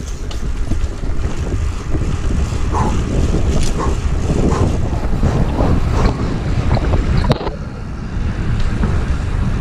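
Wind buffeting the microphone of a moving bicycle, over a steady road rumble, with scattered small clicks and rattles. A sharp click comes about three-quarters of the way through.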